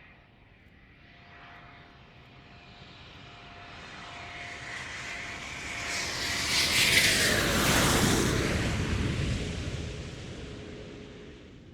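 An aircraft flying past: its engine noise builds up, is loudest about seven to eight seconds in, then fades away, with a steady tone that drops in pitch as it passes.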